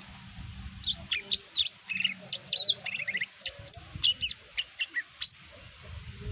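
Lesser green leafbird (cucak ijo mini) singing a rapid, varied string of short, sharp whistled notes and quick chattering trills, then falling silent about five seconds in.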